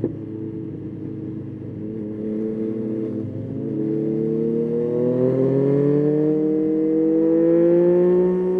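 Yamaha Tracer 9's three-cylinder engine under way: after a brief dip in the engine note at the start it holds steady, then pulls up, rising steadily in pitch and getting louder through the second half.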